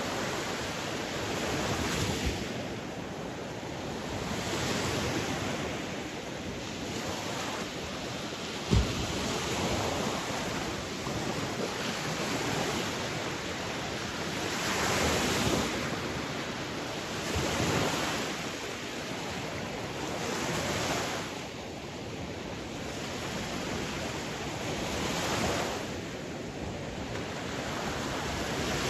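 Sea waves washing onto a shore, the surf swelling and falling every two to three seconds. A short thump about nine seconds in stands out as the loudest moment.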